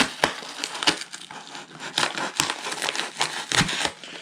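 Packing material crinkling and crackling as a package is ripped open by hand, a dense run of crackles and sharp snaps.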